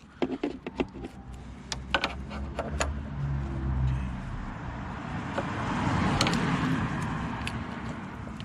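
Light clicks and rattles of small parts being handled. Then a vehicle passes, its noise swelling to a peak about six seconds in and fading away.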